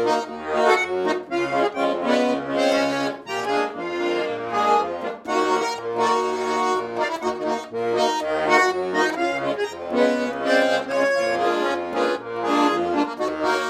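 Garmon (Russian button accordion) playing an instrumental break of a song: a lively melody over a steady, evenly repeating bass-and-chord accompaniment.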